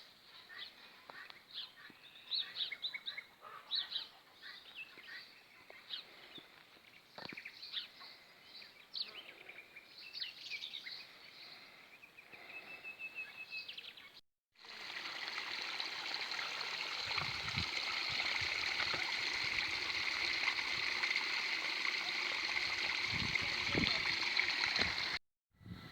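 Small birds chirping in short, scattered calls. After an abrupt cut, a steady rush of running water like a stream takes over, with a few low knocks.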